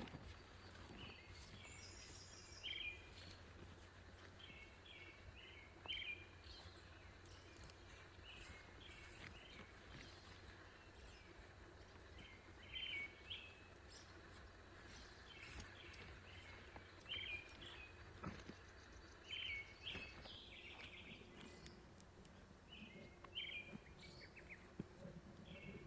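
Small birds chirping and twittering in short repeated phrases, a call every second or two, over a faint low rumble of wind.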